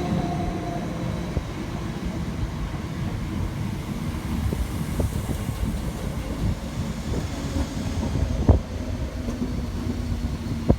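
Train rolling along the track at the station: a steady low rumble of wheels on rail with scattered clicks, and one sharper knock near the end.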